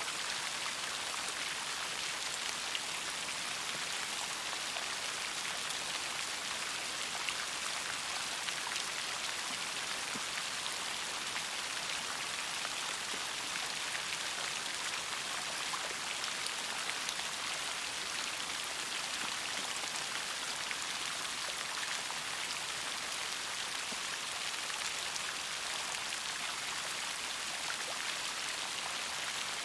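Steady rain with raindrops pattering on a surface: an even hiss dotted with many small ticks, unchanging throughout.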